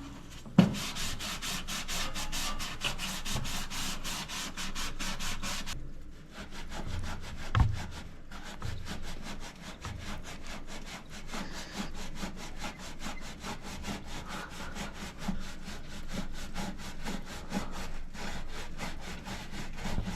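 Sponge scrubbing back and forth against the greasy inside of a toaster oven, about four strokes a second, harder for the first six seconds and lighter after. Two sharp knocks, about half a second in and near eight seconds.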